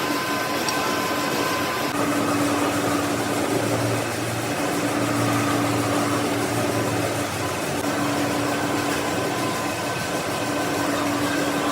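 A machine tool running steadily, a continuous mechanical hum with a steady low whine held throughout.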